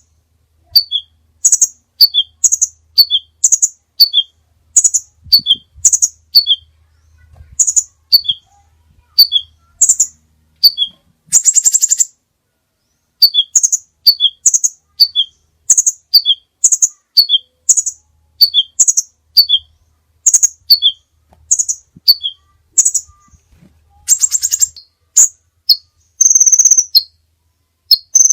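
Songbird singing a repeated phrase of short, high chirps stepping down in pitch, about one phrase a second. A buzzy rattle comes about twelve seconds in, and a steady high trill sounds near the end.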